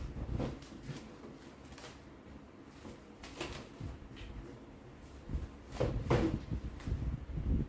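Scattered knocks and clicks of a microwave being handled, as of its door or plastic parts being moved and opened, a few seconds apart and busier near the end.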